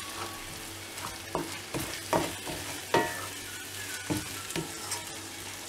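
Onion-tomato masala sizzling in coconut oil, stirred with a wooden spatula that scrapes and knocks against the pan in irregular strokes over a steady frying hiss.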